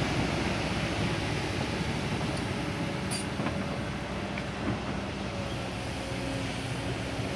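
Kobelco SK200 Super X excavator's diesel engine running steadily, with a couple of light knocks midway.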